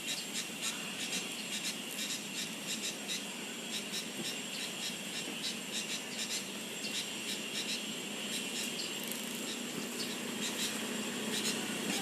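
Insects droning steadily at a high pitch, with many short irregular clicks running through.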